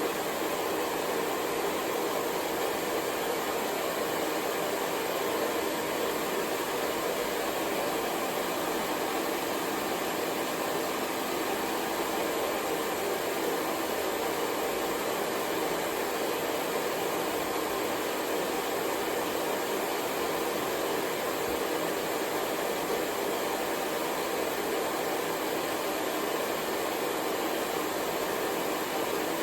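Hair dryer running steadily, a constant even whoosh of blown air and motor with no change in level.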